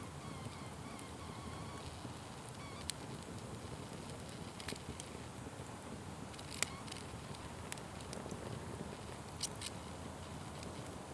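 Wood fire burning with a steady low noise of flames and scattered sharp pops and crackles, the loudest about two-thirds of the way through.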